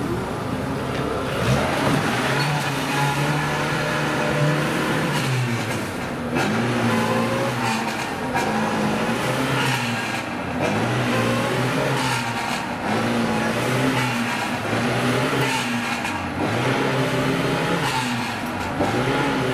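Lada Niva 4x4 engine revving up and down over and over, its pitch rising and falling every second or two, as it pushes through deep mud and water, tyres churning.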